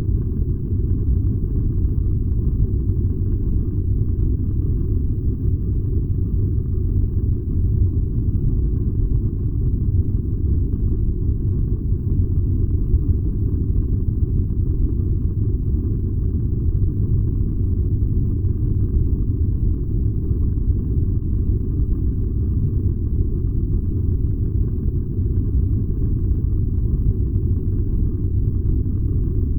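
Furnace running with a steady, even low rumble.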